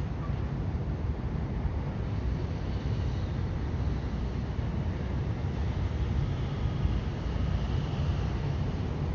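Steady low rumbling noise with wind buffeting the microphone.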